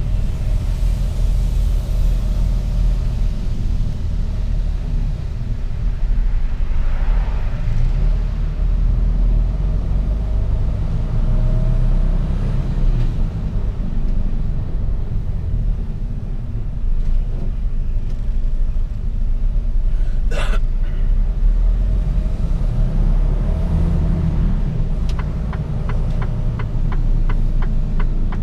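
Mercedes-Benz Actros truck running through city traffic: a steady low rumble of diesel engine and road noise. There is a single sharp click about twenty seconds in, and a rapid, even ticking in the last few seconds.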